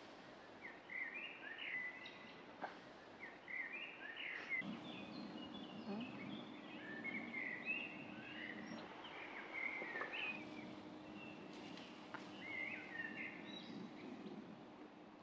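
Songbirds chirping and warbling faintly in short repeated phrases. A faint steady low hum comes in about four and a half seconds in.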